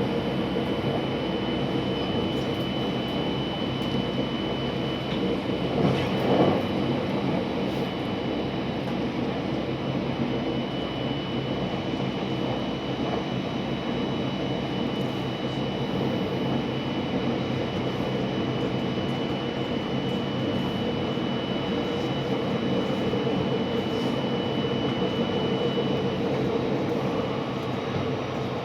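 Inside a 683 series electric train running at speed: steady rumble of wheels on rail and running noise, with a thin high tone held throughout. A brief louder clatter comes about six seconds in.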